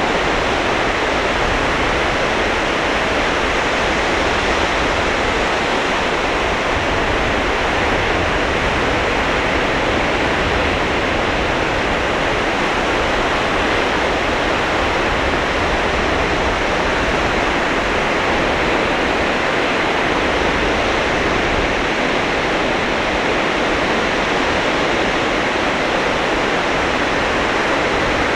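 Sea surf washing onto a sandy beach, heard as a steady, unbroken rush with no distinct breaks between waves.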